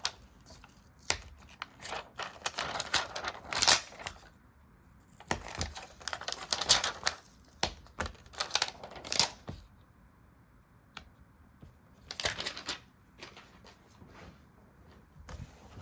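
Sticker and paper handling: bursts of crisp taps, rustling and crinkling as stickers and paper are worked, with a quieter pause of about two seconds around ten seconds in.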